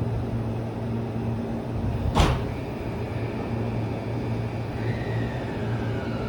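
Electric train at a station: a steady low hum, one sharp clank about two seconds in, and a faint falling whine near the end.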